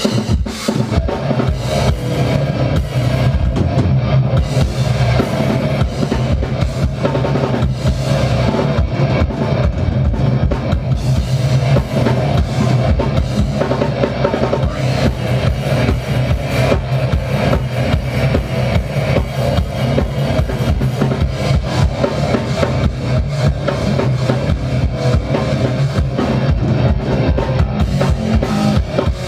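Progressive death metal band playing live: distorted guitars, bass and drum kit with rapid bass drum strokes, coming in all at once at the start and playing at full loudness throughout.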